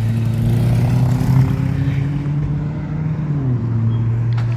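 A motor vehicle's engine running close by, with road noise; its pitch drops a step about three and a half seconds in.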